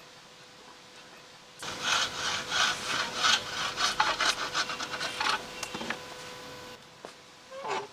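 Hand saw cutting wood in a run of quick back-and-forth strokes. The strokes speed up, then stop about five and a half seconds in. A short scrape follows near the end.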